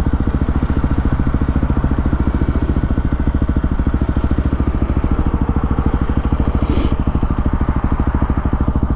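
Kawasaki KLX300R's single-cylinder four-stroke engine running steadily at an even speed, with no revving. It breathes through an open airbox lid and exhausts through an FMF Powercore 4 silencer fitted with a quiet insert, a combination the owner still finds too loud.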